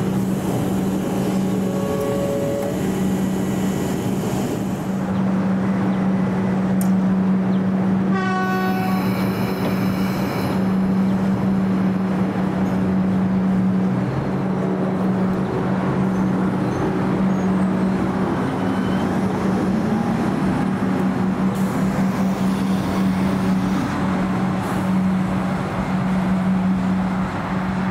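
Comeng electric train pulling out of the platform with a steady hum and wheel noise, sounding one horn blast of about two seconds about eight seconds in, the new X'Trapolis-type horn that replaced the old RVB horn. Near the end a second Comeng train is approaching.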